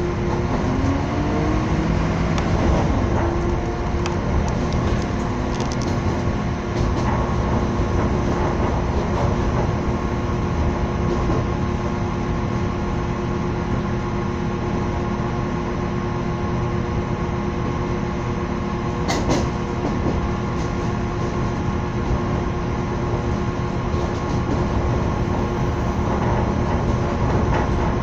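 Passenger train running along the track, heard from on board: a steady rumble and rattle with a hum that climbs in pitch over the first couple of seconds and then holds. A single sharp click about nineteen seconds in.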